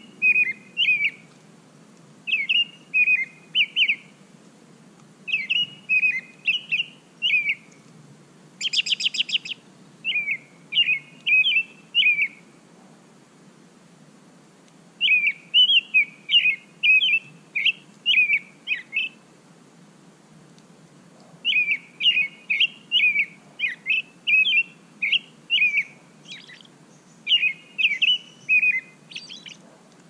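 Songbird singing short phrases of quick chirping notes, repeated again and again with pauses between. About nine seconds in comes a brief, rapid series of dry clicks.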